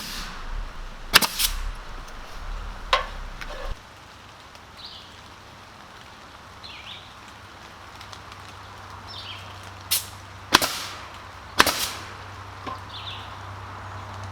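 Sharp single knocks, about eight of them, some in quick pairs and bunched near the start and between 10 and 12 seconds, typical of boards being fastened on a building site. Faint short bird chirps come between them, and a steady low hum comes in about halfway through.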